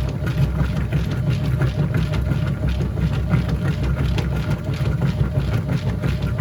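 Whirlpool top-load washing machine running mid-cycle: a steady low hum with a light, quick, uneven ticking over it.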